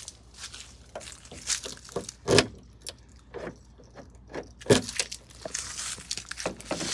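Gear lever of a 1993 Ford Ranger's manual transmission being worked through the gears: a series of irregular clicks, clunks and rattles, with the loudest clunks about two and a half seconds in and near five seconds.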